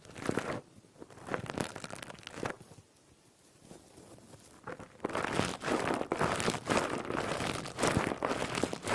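A crackly sponge being squeezed and worked, giving a mix of wet squishing and crisp crackling. Short bursts of crackle at first, a lull of about two seconds near the middle, then dense continuous crackling.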